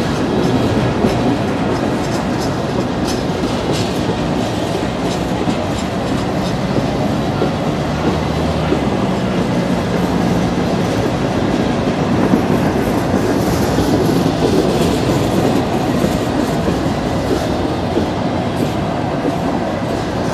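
Freight train of coal hopper cars rolling past: a steady rumble of steel wheels on rail, with occasional sharp clicks.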